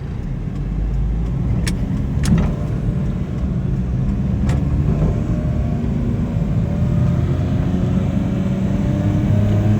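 A 2000 Suzuki Carry kei truck's small three-cylinder engine and road noise while driving. The engine note climbs slowly as the truck gathers speed, and a few short knocks or rattles sound in the first half.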